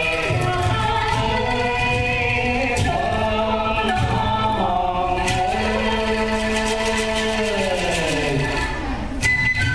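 Traditional Vietnamese music played live by an ensemble, with several sustained pitched lines. Near the end the pitches slide downward together, and a new section starts just before the end.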